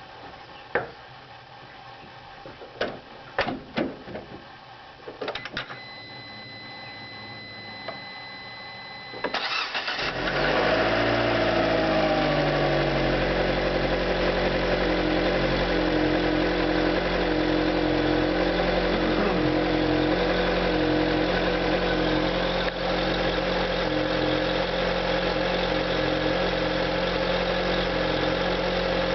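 A few clicks, then a steady high tone for about four seconds. Then a Fiat Grande Punto's 1.4 16v four-cylinder petrol engine cranks briefly and catches. It runs at a raised idle that falls in pitch over a few seconds, then idles steadily.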